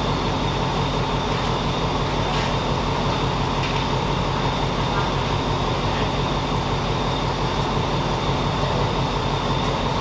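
Diesel-hauled passenger train with an Alsthom locomotive running steadily: an even engine drone under a steady high whine, with a few faint clicks.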